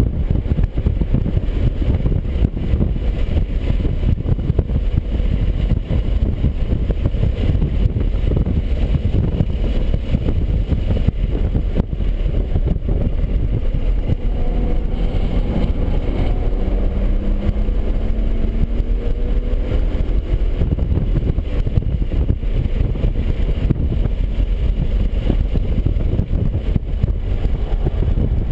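BMW 135i's twin-turbo straight-six running at speed on a race track under heavy wind and road rumble, its engine note rising and falling around the middle.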